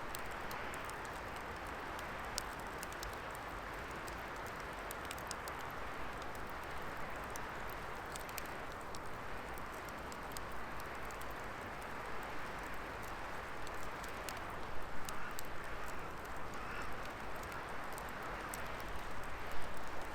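Wood fire burning with a steady rushing hiss and many small sharp crackles and pops, the crackling busier near the end.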